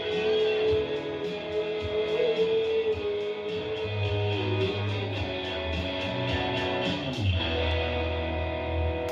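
Live electric guitar playing long ringing, sustained notes over low bass notes, with a downward slide about seven seconds in.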